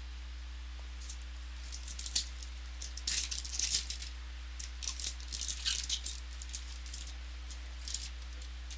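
Trading cards and their packs being handled: irregular crisp clicks and rustles, densest in the middle of the stretch, over a steady low electrical hum.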